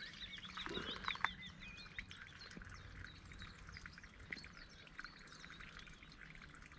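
Small birds chirping and twittering, many short high calls overlapping, busiest in the first second or so, with a few faint clicks around one second in.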